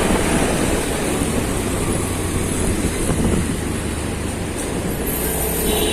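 Steady road-riding noise from a motorcycle on the move: a low engine rumble mixed with wind and road noise on the microphone.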